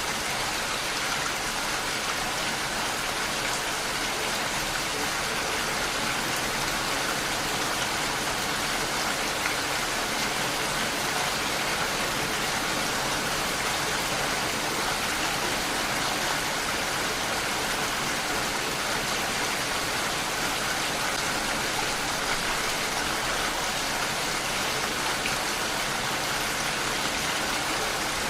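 Steady rainfall, an even hiss of many drops with no change or break.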